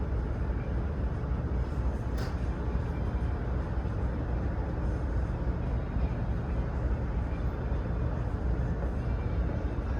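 Steady low rumble of an idling truck engine, with a faint click about two seconds in.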